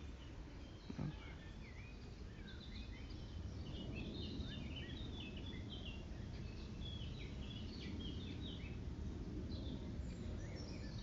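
Small songbirds chirping, a busy run of short, quick high notes, over a steady low rumble.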